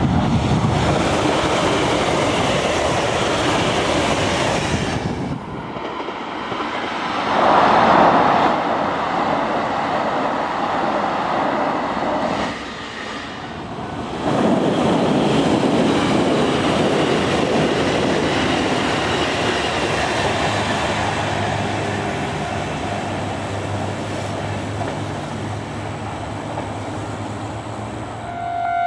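JR Kyushu 885 series tilting electric express trains passing at speed: a steady rush of wheels on rail with clickety-clack. Several recordings are spliced together, so the sound changes abruptly at each cut.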